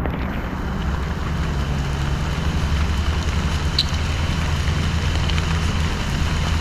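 Steady low vehicle engine hum under a constant hiss of rain.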